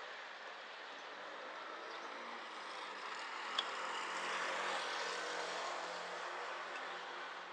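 Road traffic noise on a city street, swelling and fading as a motor vehicle goes by in the middle, with one sharp click about three and a half seconds in.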